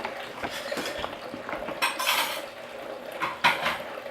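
Kitchenware clinking and clattering as it is handled, in two short bursts of clatter about two seconds and three and a half seconds in.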